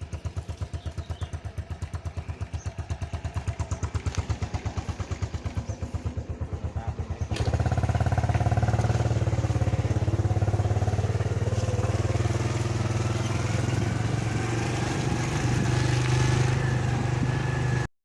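Motorcycle engine: a rapid, even low putter for the first several seconds, then after about seven seconds it runs louder and steadier, as when riding along.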